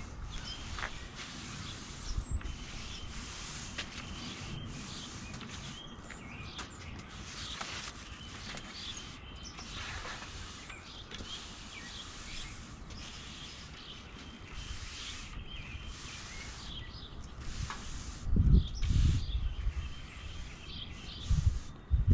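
A broom sweeping sand across brick pavers into the joints, in repeated swishing strokes about once a second. Birds chirp now and then, and there are a couple of low thuds near the end.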